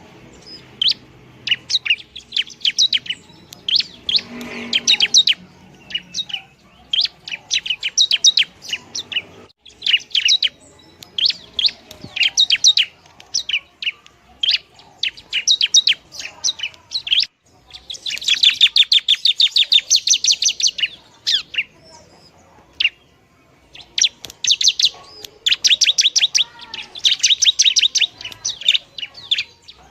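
Long-tailed shrike (pentet) singing: phrase after phrase of rapid, high chattering notes, each about a second long with short gaps between, and one longer unbroken run about halfway through.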